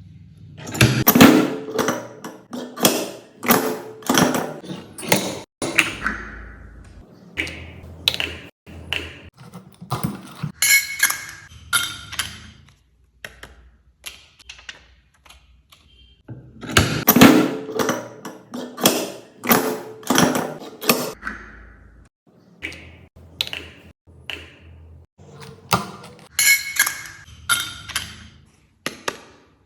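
Hand-operated photo-magnet making machine working: a run of sharp mechanical clunks, clicks and taps as parts are pressed and cut. The same sequence of knocks repeats about halfway through, as one magnet after another is made.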